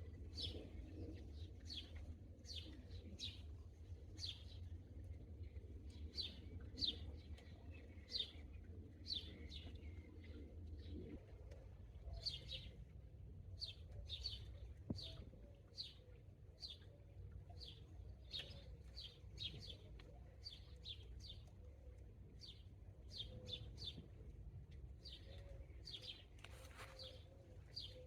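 Small birds chirping faintly: a long run of short, high chirps, roughly one or two a second, over a low hum that stops about eleven seconds in.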